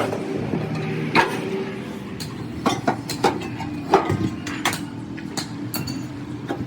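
Sharp metal knocks and clinks of tools on steel parts, about eight at uneven intervals, over a steady low hum.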